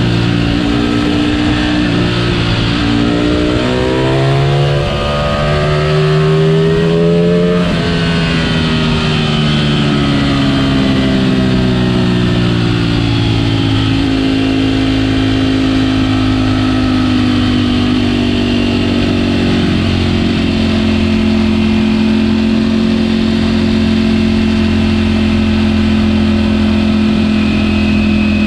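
Ducati Panigale V4 S's V4 engine through its stock exhaust, heard on the bike under way: the revs climb for the first several seconds, drop sharply at about a quarter of the way in, then fall slowly as the bike slows and settle into a steady cruising note for the second half.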